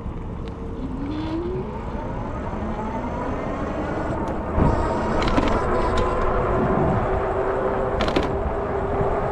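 Ariel Rider D Class electric bike's motor whining as it accelerates, rising in pitch over the first few seconds and then holding a steady pitch at speed, over wind and road noise. A few sharp clicks come in the middle and near the end.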